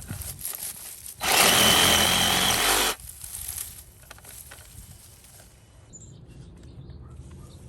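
BLACK+DECKER 20V MAX cordless reciprocating saw runs in one loud burst of about two seconds, starting a little after the first second and stopping abruptly, with quieter handling noises around it.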